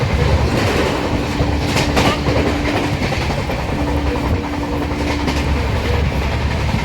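Kandari Express passenger train running on the rails, a steady rumble with wheel clatter. Around the middle, a steady tone is held twice, about two seconds each time.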